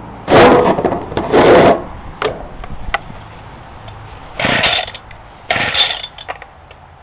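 Recoil starter rope of a Homelite ST175G two-stroke string trimmer pulled four times in a cold start on choke, each pull a short loud rasp of rope and ratchet, with the engine not yet running.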